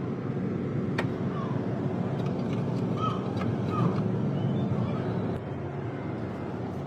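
A steady low engine drone, with one sharp click about a second in and a few short high chirps over it.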